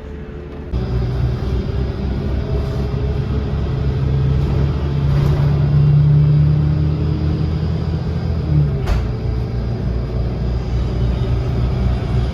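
City bus engine and road noise, heard from inside the bus as a steady low rumble. The engine note grows louder for a few seconds around the middle, and there is a single sharp click about nine seconds in.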